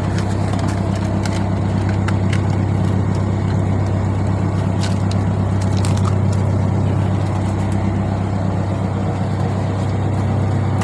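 Fishing boat's engine running steadily with a low, even hum, with a few sharp clicks and knocks on top.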